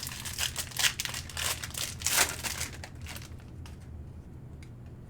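A trading card pack wrapper being torn open and crinkled in the hands, busiest over the first three seconds, then a few faint ticks as the handling settles.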